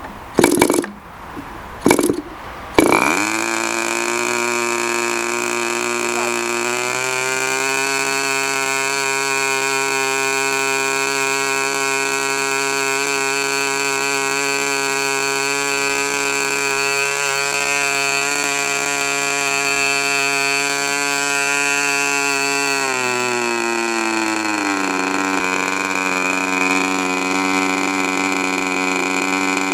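K&B .40 R/C two-stroke glow model engine being hand-started: a few sharp pops as it is flipped, then it catches about three seconds in and runs steadily at high speed. It speeds up about seven seconds in, then slows in two steps near the end to a lower running speed.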